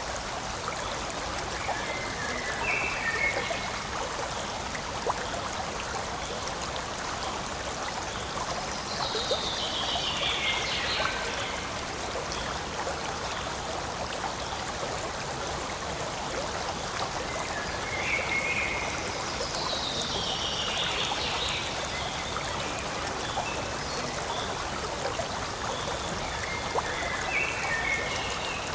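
Forest stream water flowing steadily with a continuous rushing trickle. Short, higher-pitched calls come and go over it several times, two of them falling in pitch.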